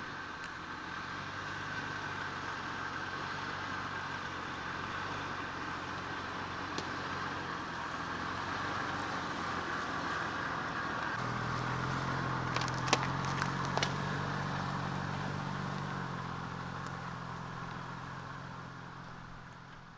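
A vehicle's engine running steadily with road noise, its pitch stepping up and growing louder about halfway through. A few sharp clicks come near the end, and the sound fades out.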